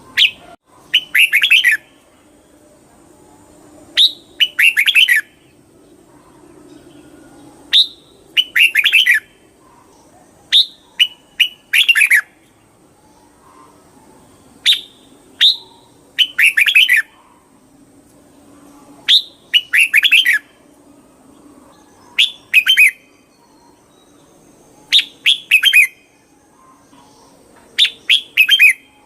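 Red-whiskered bulbul singing: short phrases of quick warbling notes, about one every three seconds, each opened by a single sharp note.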